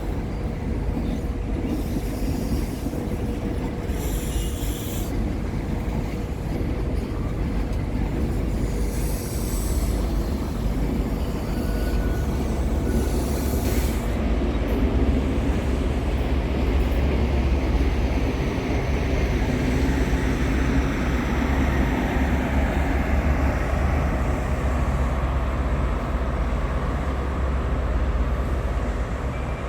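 A train running on the line, with a continuous heavy rumble that grows louder past the middle. Several short high-pitched bursts of hiss or squeal come in the first half.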